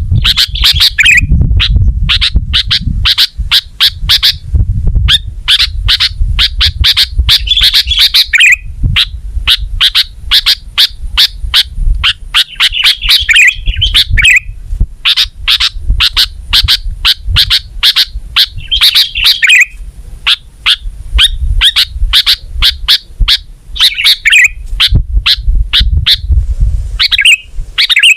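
Sooty-headed bulbul (kutilang) song: a fast, steady run of sharp repeated chirps, several a second, broken every few seconds by short warbling phrases, over a low rumble.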